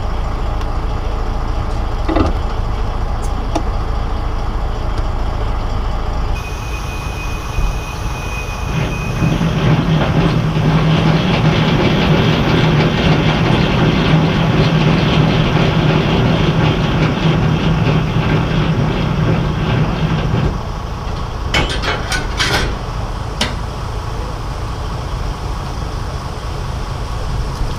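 DAF lorry's diesel engine running at idle. For about ten seconds in the middle it runs louder and fuller, and near the end there are a few sharp metallic clanks from the trailer coupling work.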